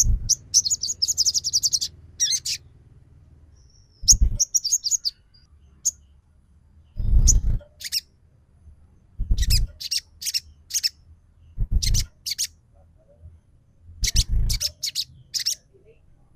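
Sogon bird lure call: a rapid rattling 'trotol' trill of high notes, then phrases of sharp high chirps repeated about every two and a half seconds, each with a low hum underneath.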